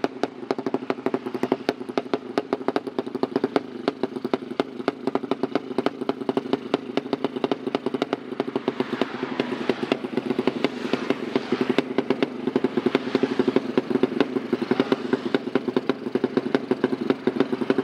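Drag-racing motorcycle engine running steadily at idle through an open exhaust, a fast, even train of exhaust pulses.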